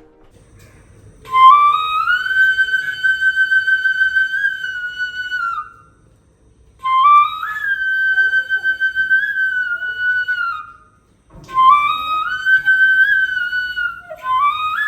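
Solo flute music: slow melodic phrases, each sliding up into a long held note with small ornamental turns, three phrases with short pauses between them.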